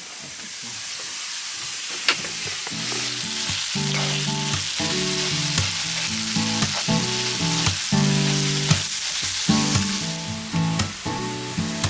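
Breakfast frying in a pan, a steady sizzle that grows louder, with a couple of sharp clicks. Background music with plucked chords comes in about two and a half seconds in.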